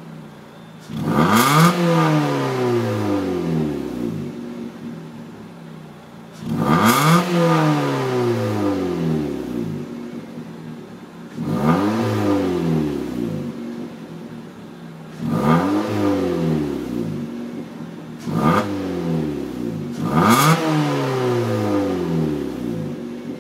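Opel Astra exhaust with the resonator deleted, the engine revved in repeated sharp blips, about six in all, each climbing quickly in pitch and then dropping back slowly toward idle.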